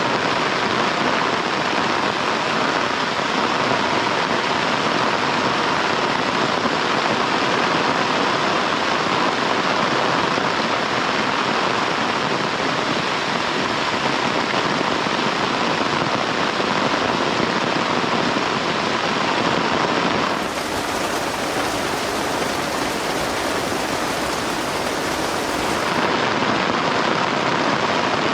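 Heavy rain falling steadily. Around two-thirds of the way through, the rain turns slightly softer and hissier for about six seconds, then returns to its earlier sound.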